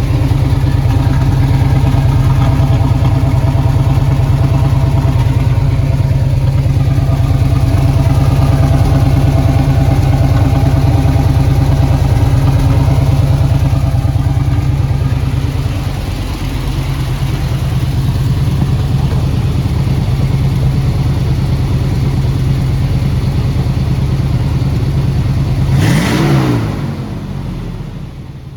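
1989 Chevy Blazer's 350 small-block V8 idling steadily through headers and a Dynomax Super Turbo muffler with a turndown exhaust. Near the end the engine is blipped once, revs rising and falling quickly, then the sound fades out.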